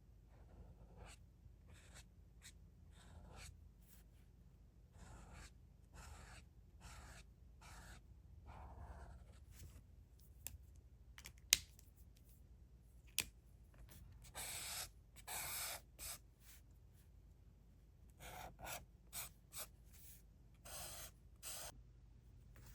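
Drawing tool scratching on sketchbook paper in a series of short strokes, with two sharp clicks a little past the middle and a few longer, louder strokes after them.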